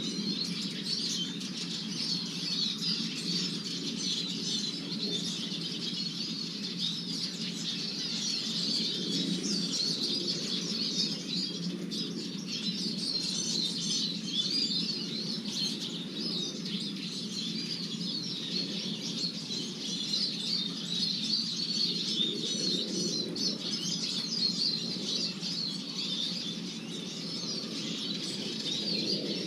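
Small finches at a feeder, likely Eurasian siskins, twittering and chattering without pause, with wing flapping as they scuffle, over a steady low rumble.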